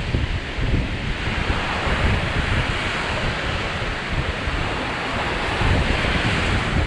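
Lake Michigan waves breaking and washing on the shore, swelling about two seconds in and again near the end, with wind rumbling on the microphone.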